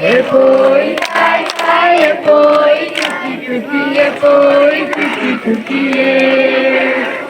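A group of male and female voices singing together in unison, holding long notes between short phrases.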